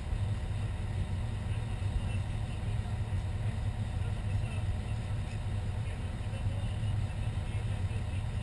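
A fire engine's engine running steadily, a low, even drone heard from inside the cab.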